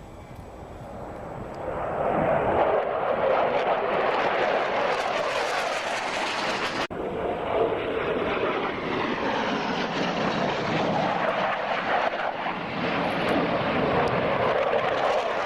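Airplane engine noise at an airshow, building over the first two seconds and then staying loud and steady. It breaks off for an instant about seven seconds in.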